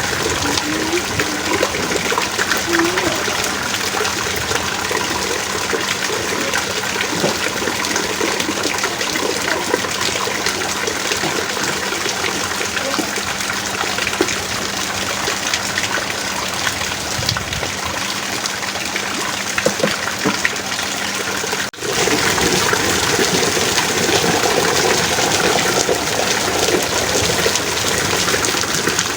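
Heavy rain pouring down steadily in an even rush. The sound drops out for an instant about three-quarters of the way through, then resumes at the same level.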